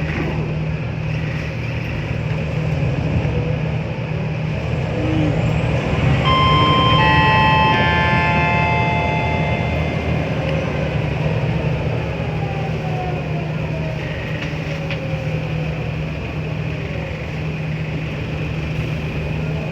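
Scania L94UA city bus's diesel engine running steadily with a low drone. Six to ten seconds in, a cluster of high held tones at several pitches sounds over it, and afterwards a whine slowly falls in pitch.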